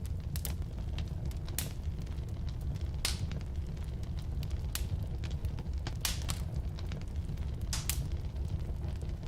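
Firewood burning in a fireplace: a steady low rumble of the flames with irregular crackles and sharp pops, a few louder pops about three, six and eight seconds in.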